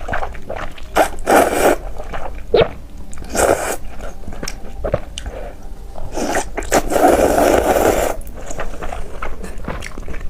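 Close-up eating sounds: luosifen (river-snail rice noodles) being slurped in several short pulls, the longest lasting about a second around two-thirds of the way through, with chewing between them.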